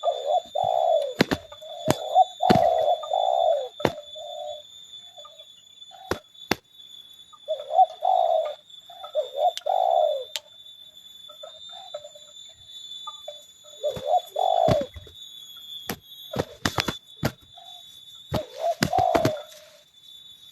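Spotted doves cooing in repeated phrases, broken by sharp knocks and slaps from the birds clashing.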